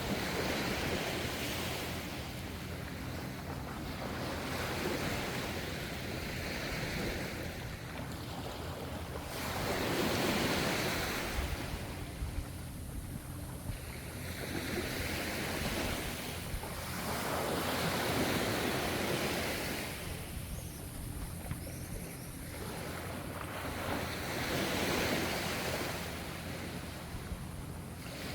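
Ocean waves breaking and washing in, a steady rush that swells and ebbs in slow surges every few seconds, with a low rumble underneath.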